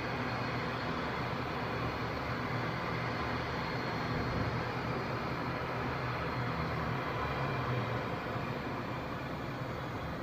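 Airliner engines running steadily, a high whine over a low rumble, easing off a little near the end.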